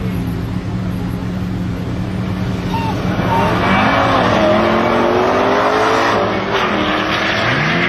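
Two cars launching from a drag-race start, an Audi TT RS's turbocharged five-cylinder and a Mercedes CLK AMG, running steadily and then accelerating hard with rising engine pitch. The pitch drops at gear changes about six seconds in and again near the end.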